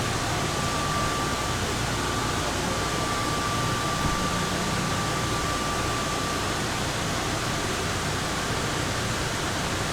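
Ride noise inside a moving Plane Train, the airport's automated underground people mover: a steady rush with a faint high whine over much of the first two-thirds.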